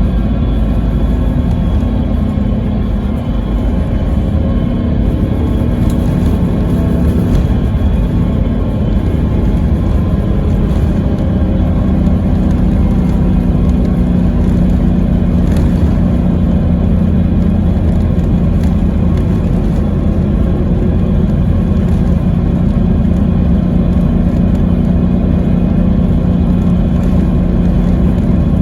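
Scania K320IB coach's five-cylinder diesel engine running steadily under way, heard from on board, a constant low drone mixed with road noise.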